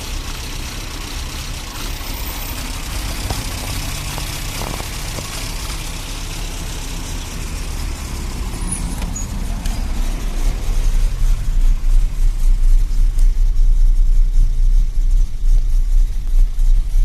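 Tofaş Doğan SLX engine with a 296-degree performance camshaft, running steadily at idle. About ten seconds in, the deep rumble grows louder and more uneven.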